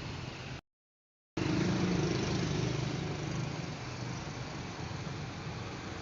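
A vehicle engine running with road noise. A dead silence of under a second comes early in, then the engine sound returns louder and settles.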